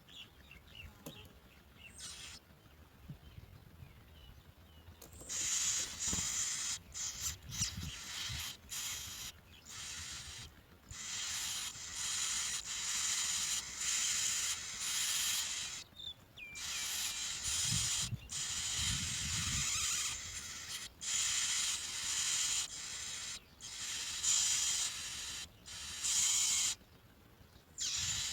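Bar-winged prinia nestlings giving raspy, high-pitched begging calls in repeated bursts, starting about five seconds in, as they are fed.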